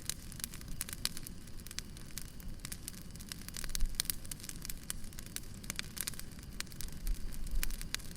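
Wood fire crackling: irregular sharp pops and snaps over a low rumble of burning logs.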